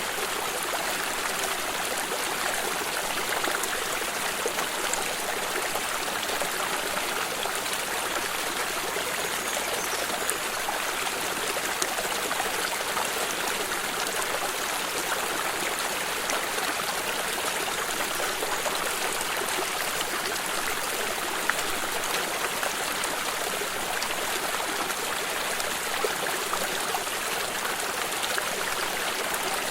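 Steady flowing stream, water running and trickling over stones, with small splashes scattered through it.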